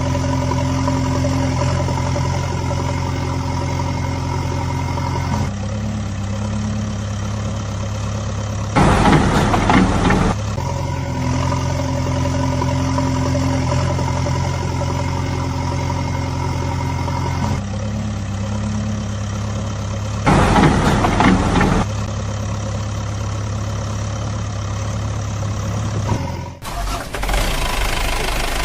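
Heavy vehicle engine idling steadily, a repeating loop that shifts pitch every few seconds. It is broken twice by a short, louder noisy burst, about 9 and 20 seconds in.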